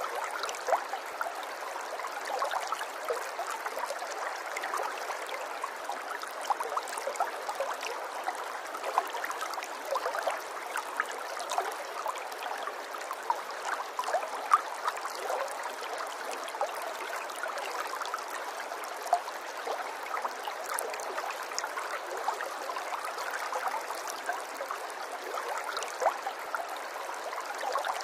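Running water babbling steadily, a continuous wash dotted with many small splashes and drips.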